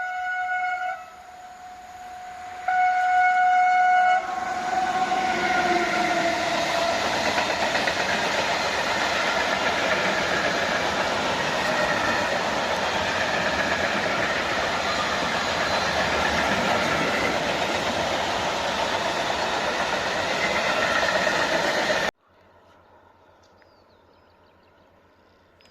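Electric locomotive 111Ed-083, a Siemens Vectron, sounds its horn twice, the second blast dropping in pitch as it comes by. Then the train passes with a loud, steady rumble and wheel clatter for about 17 seconds, cut off suddenly near the end.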